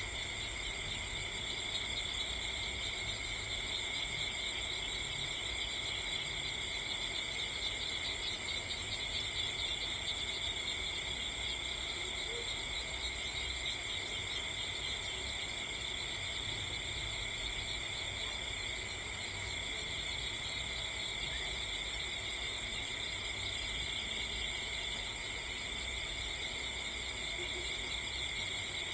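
A steady chorus of crickets, an unbroken high-pitched trilling in several layers, over a low rumble.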